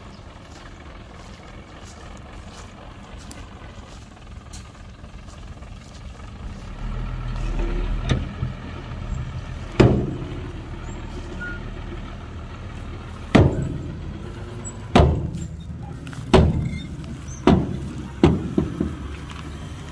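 Heavy diesel construction machinery running steadily, its engine rising in load about a third of the way in. Then comes a series of about eight loud, sharp metallic clanks and bangs at irregular intervals.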